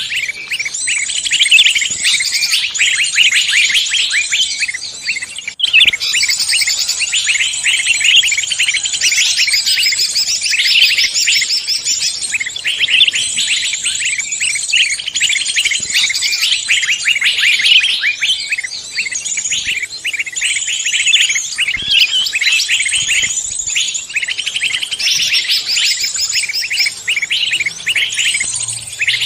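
Dense chorus of many songbirds chirping and trilling at once, a layered mix of several forest songbird species used as a bird-luring call, with a brief gap about six seconds in.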